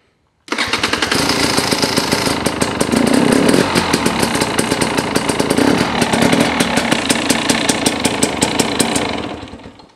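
KTM TPI fuel-injected two-stroke dirt bike engine running cold just after starting, with rapid, even firing. It cuts in sharply about half a second in and fades away near the end. The engine has a newly fitted crankcase pressure sensor, put in to cure a sputter.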